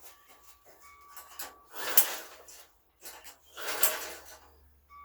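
Two pulls on a small pressure-washer engine's recoil starter cord, each a brief whir, with the spark plug out to check for spark; the engine does not fire.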